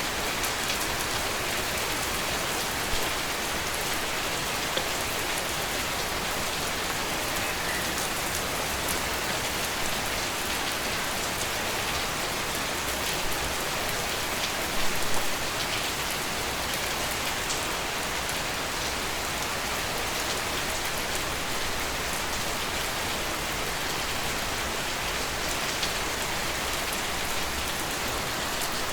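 Steady rainfall, drops pattering on a surface with many fine ticks, a brief louder patch about halfway through.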